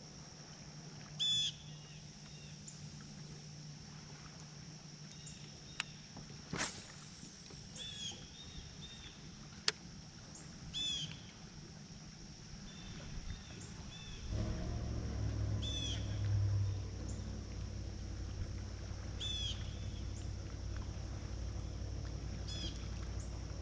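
A bird gives short chirps every few seconds over a steady high insect buzz. About fourteen seconds in, the low drone of a motorboat engine comes up and holds as the loudest sound.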